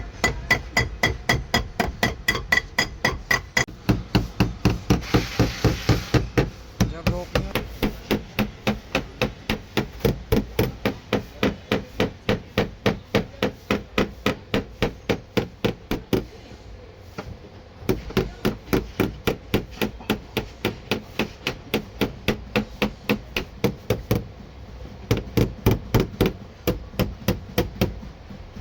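Rapid, even hammer taps on car body sheet metal, about three or four strikes a second, with two short pauses partway through: a dented door panel being beaten out.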